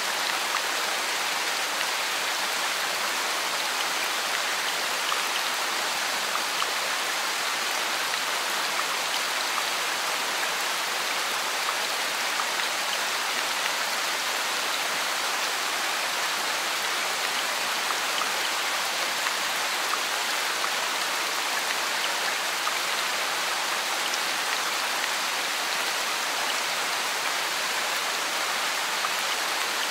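Steady, even rain falling on leaves.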